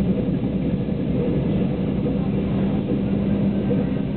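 Train running along the track, heard from on board: a steady rumble with a constant low hum.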